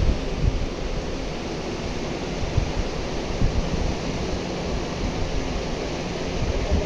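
Steady rushing of wind and moving river water, with low gusty buffeting of wind on the microphone.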